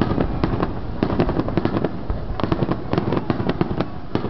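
Fireworks going off at a fireworks display: a dense run of rapid crackling pops over a low rumble.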